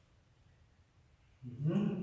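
Near silence, then a man's voice starts speaking about one and a half seconds in.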